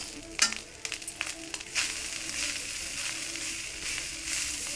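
Vegetable fried rice sizzling in an iron kadhai as it is stirred with a steel spoon. A few sharp clicks of the spoon against the pan come in the first second and a half, then a steady sizzle takes over.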